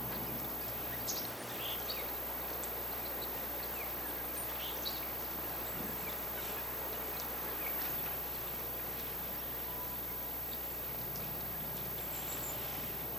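Scattered short, high bird chirps over a steady outdoor hiss.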